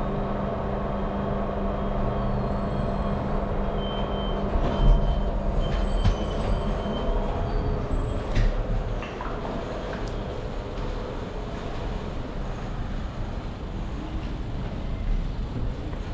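Steady road and vehicle engine noise, with a low hum and a few short high squeaks and clicks between about four and eight seconds in.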